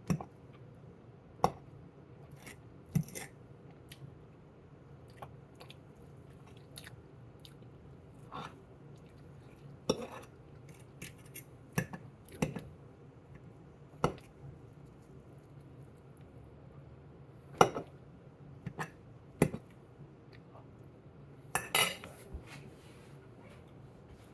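Eating from a plate: a fork or utensil clicking and knocking against the plate at irregular moments, about a dozen times, with faint chewing, over a low steady hum.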